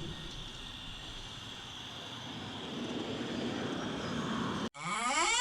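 Solar swing gate opener's electric motor running as the gate swings open, a steady whirr that grows louder about two seconds in. Near the end it cuts off abruptly, and a pitched tone glides up and then holds.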